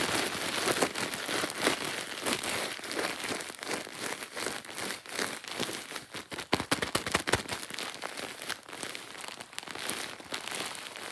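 Irregular crinkling and crackling from something being handled close up: a dense run of small sharp crackles with a few louder snaps near the middle.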